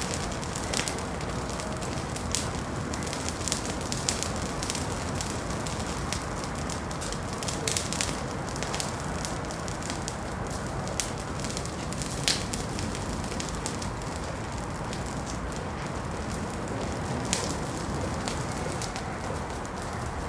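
Wood fire crackling in a fireplace: a steady hiss and rumble of burning logs, broken by frequent sharp, irregular pops and snaps.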